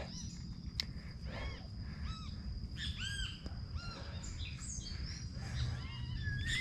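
Jungle birds calling in a string of short rise-and-fall notes, repeated about once or twice a second, like laughing. A steady high thin tone runs underneath.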